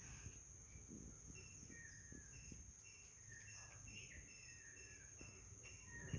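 Faint ambience: a steady high insect drone under short bird chirps repeated many times, with a low rumble and a soft knock at the very end.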